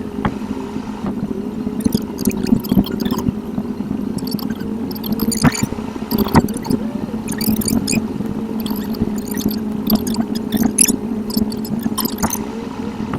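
Car interior driving noise from a dashcam, sped up eight times: a steady, high-pitched hum of engine and road noise with scattered short chirps and clicks.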